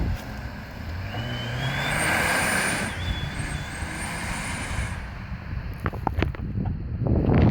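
Car engine accelerating with a turbocharger whistle rising in pitch for about two seconds, cutting off about three seconds in, followed by a brief second whistle.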